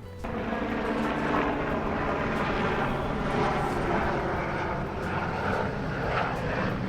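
Airplane passing overhead: steady engine noise that comes in suddenly at the start and holds throughout.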